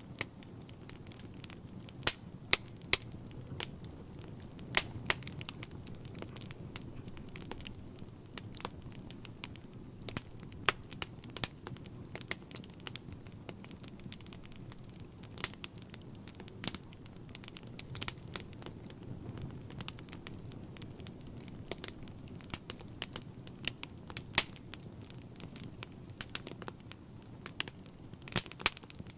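Wood fire burning in a fireplace: irregular sharp crackles and pops, sometimes several in quick succession, over a steady low rumble of the flames.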